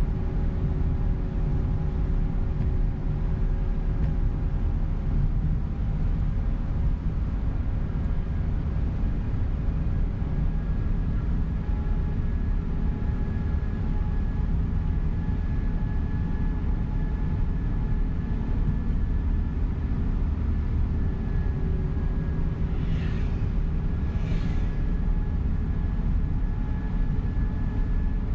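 Steady engine and road noise heard inside a coach bus while it drives along, a constant low rumble with a faint whine over it. Two short hisses come near the end.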